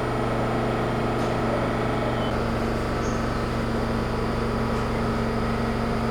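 Inside a Seibu 8500 series Leo Liner car: a steady electrical hum in several fixed pitches over an even noise, with no rise or fall in pitch.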